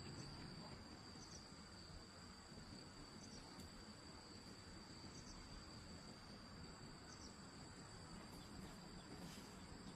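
Faint, steady high-pitched trilling of crickets over low background hiss, with a short faint chirp about every two seconds.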